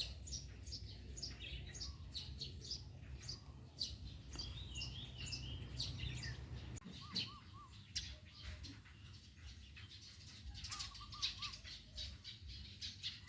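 Several songbirds chirping in many short, high notes, with a warbling phrase about a third of the way in and two short runs of three lower notes, one past the middle and one near the end, over a faint low rumble.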